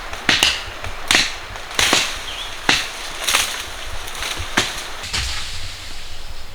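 Repeated chopping blows into wood with a blade, about one sharp strike every three-quarters of a second. The strikes grow fainter and sparser in the second half.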